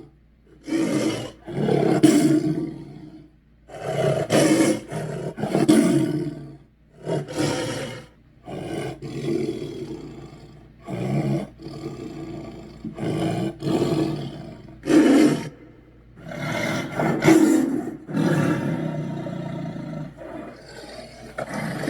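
A string of about a dozen separate deep, rough monster roars and growls for the demon Chernabog, each lasting a second or so, with short pauses between them.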